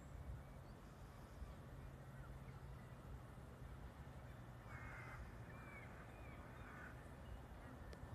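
A bird gives three short calls in quick succession about halfway through, over a faint steady low rumble of outdoor background.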